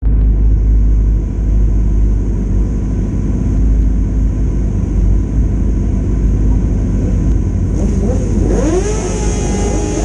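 Middleweight superbike racing motorcycle engine. A steady low rumble gives way about eight seconds in to the engine revving up, its pitch rising sharply and then holding.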